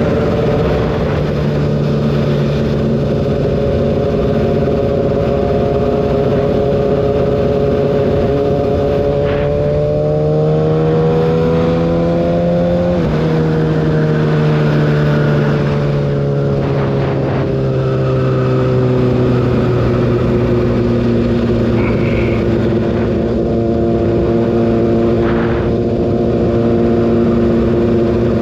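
Kawasaki ZX-6R inline-four engine running at road speed over steady wind rush; about ten seconds in the revs climb for a few seconds, drop sharply at an upshift, then ease off and settle into a steady cruise.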